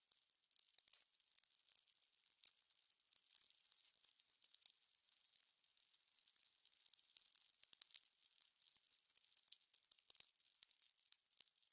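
Fire crackling: a thin, high hiss with frequent irregular snaps and pops.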